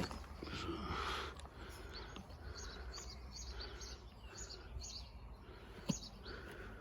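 Small birds chirping repeatedly over faint outdoor background noise, with a brief rustle about a second in and a single sharp knock near the end.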